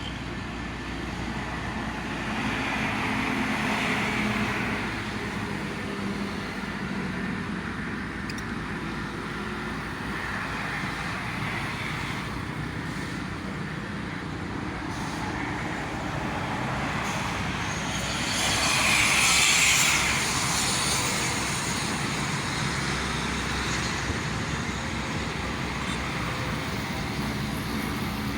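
Steady toll-road traffic rushing past, with passing vehicles swelling louder about four seconds in and again, most loudly, about two-thirds of the way through.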